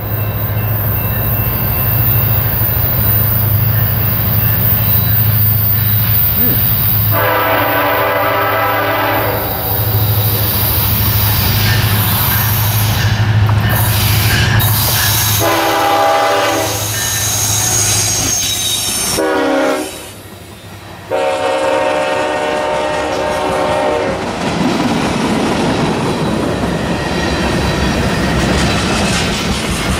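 Freight train approaching: the lead diesel locomotive's air horn sounds the grade-crossing pattern, two long blasts, a short one and a final long one, over a low engine rumble. Then the train rolls past, its wheels clattering and squealing on the rails.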